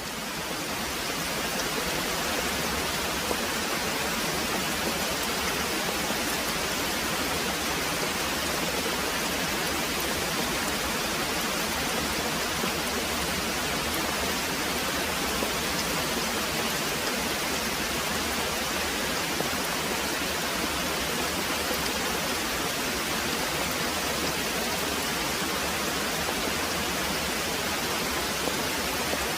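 Very heavy rain pouring steadily as an even hiss, fading in over about the first second.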